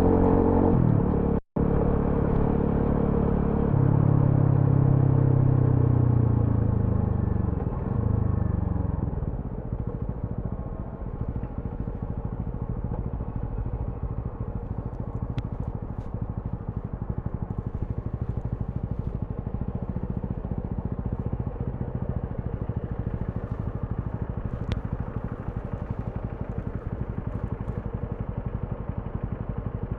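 TVS Apache RTR 200 4V's single-cylinder engine with its revs held up for the first several seconds, then falling as the bike slows. From about ten seconds in it settles into steady, quieter low-rev running.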